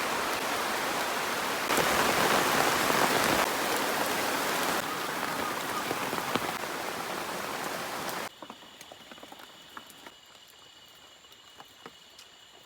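Heavy rain pouring down as a dense, loud hiss, jumping abruptly in level a few times. About eight seconds in it cuts to a much quieter background with a steady high-pitched tone and scattered light ticks.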